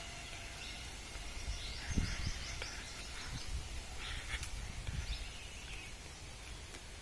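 Outdoor background with birds chirping in short quick runs, over a faint steady high tone, and a few low thumps about two and five seconds in.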